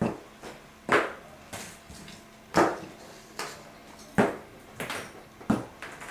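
Small metal piston-kit parts handled and set down on a workbench: a series of sharp clinks and knocks at irregular spacing, the loudest about once a second, some ringing briefly.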